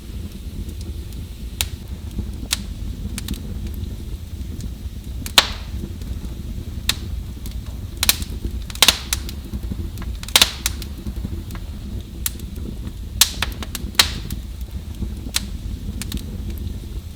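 Fire crackling in a fireplace: irregular sharp pops and snaps, the loudest about five, nine, ten and fourteen seconds in, over a steady low rush of the burning fire.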